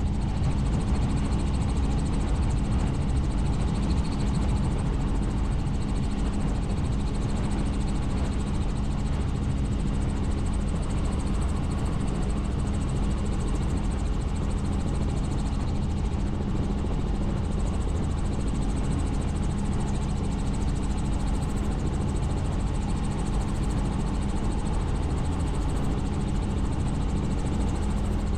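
Helicopter in flight heard from on board: a steady drone of engine and rotor with a constant low hum, unchanging throughout.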